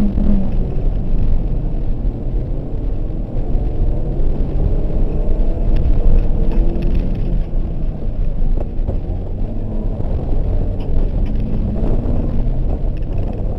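Car engine revving up and easing off again and again through an autocross course, heard from inside the car with heavy low rumble from road and wind.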